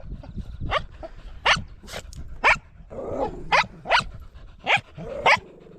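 Small dog barking in a run of short, sharp, high barks, about eight of them spaced roughly half a second to a second apart, with a lower, rougher sound a little past halfway.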